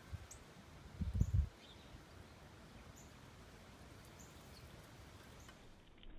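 Backyard birds giving faint, short, high chirps about once a second over steady outdoor background noise. A brief low rumble comes about a second in.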